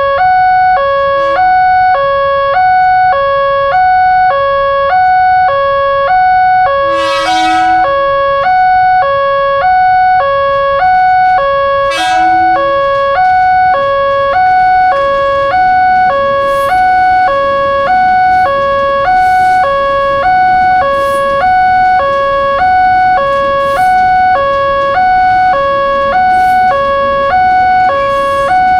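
Indonesian railway level-crossing warning alarm sounding, an electronic signal that switches steadily back and forth between two tones, each held a little over half a second. The alarm warns that a train is approaching the crossing.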